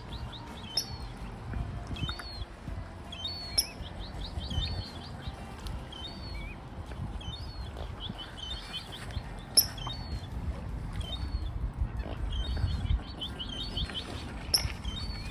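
Wild birds calling: short, high chirps and quick chattering runs repeat again and again over a low rumble. A few sharp clicks break in, the loudest about ten seconds in.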